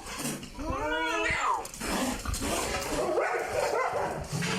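A pet animal gives one drawn-out call that rises and then falls in pitch about a second in, followed by rustling noise.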